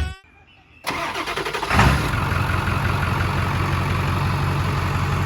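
Ford 7.3 Power Stroke turbo-diesel V8 cranking for about a second, then catching and settling into a steady idle through a 4-inch straight exhaust.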